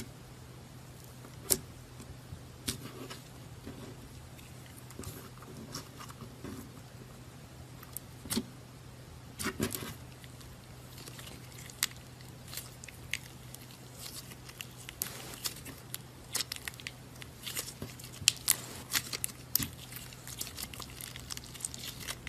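Butter slime being worked by hand, giving off scattered sticky clicks and small pops that grow busier in the second half, over a steady low hum.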